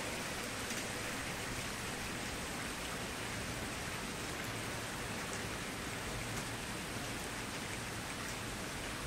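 Campfire burning: a steady hiss with scattered small crackles and pops.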